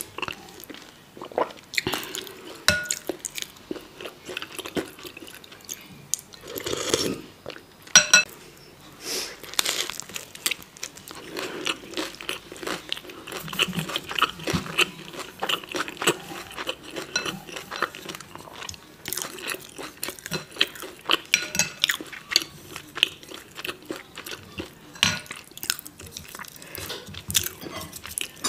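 Close-up eating sounds: a person chewing and biting a tortilla wrap and instant ramen, with many small sharp mouth clicks. Near the end, chopsticks knock against a glass bowl of noodles.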